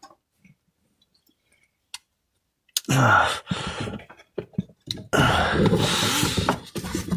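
Near silence with one faint click, then from about three seconds in a man's drawn-out groans and heavy, breathy exhalations, each falling in pitch.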